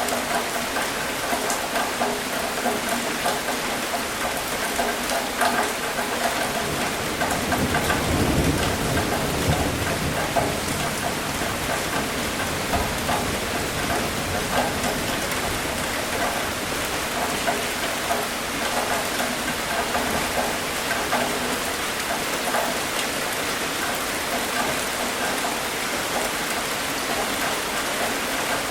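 Steady rain falling, with many individual drops ticking on a surface. A low rumble of thunder swells and fades about eight seconds in.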